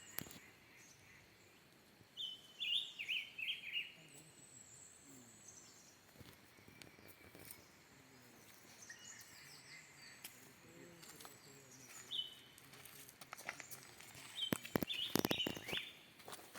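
Wild birds calling: clusters of short, high chirps about two seconds in and again near the end, over faint outdoor background, with a few sharp clicks near the end.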